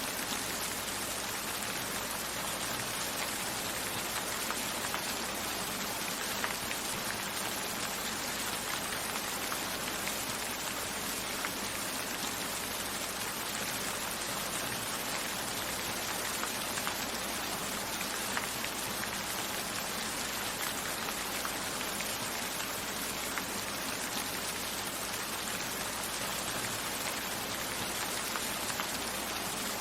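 Steady rainfall: an even hiss of rain with faint scattered drop taps.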